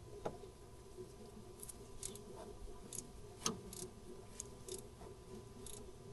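Faint, irregular light clicks and taps of hand tools being handled during car repair work, over a low steady hum.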